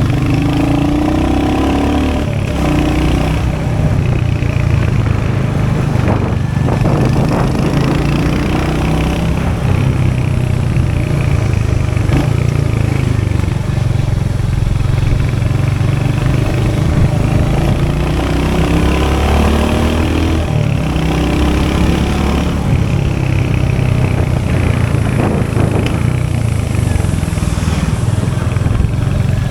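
Royal Enfield Hunter 350's 349cc single-cylinder J-series engine running steadily with its low exhaust note. The pitch climbs and falls with the revs near the start and again about two-thirds of the way through.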